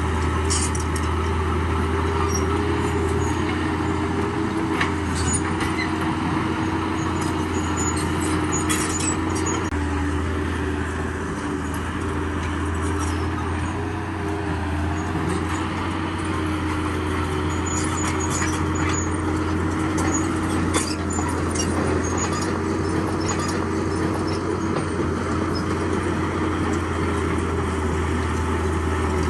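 Heavy diesel construction machinery running steadily, a deep engine drone that barely changes, with scattered light clinks and clatter of metal and rock.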